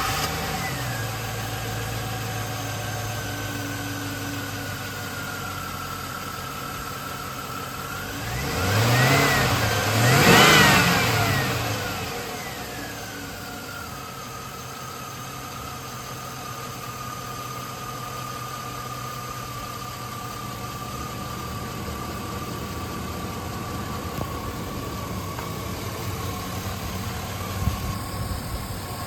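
2002 GMC Sierra 1500's engine idling just after starting, revved twice in quick succession about nine and ten seconds in, then settling back to a steady idle. A steady whine runs over the idle, drifting slightly lower in pitch.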